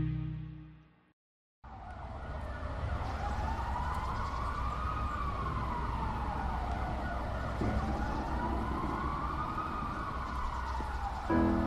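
A song ends and the sound cuts to silence for under a second. Then a wailing siren rises and falls slowly, twice, over a low street-traffic rumble. This opens the next track.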